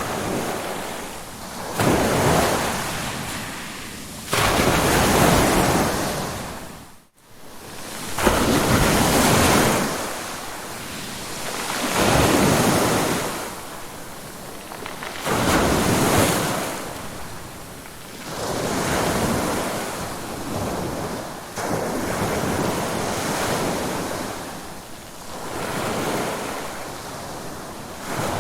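Ocean surf: waves break and wash in one after another, each surging up and ebbing away every three to four seconds. The sound briefly cuts out about seven seconds in.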